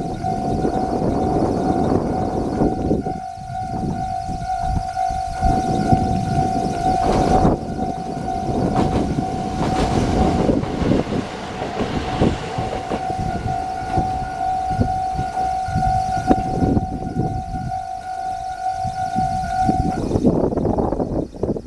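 A railway level-crossing alarm sounding a steady tone that stops about 20 seconds in, over the rumble of an arriving train and wind on the microphone.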